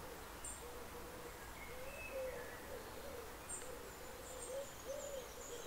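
A bird cooing in a low, repeated phrase of short wavering notes, with a few faint, high chirps from small birds over a soft background hiss.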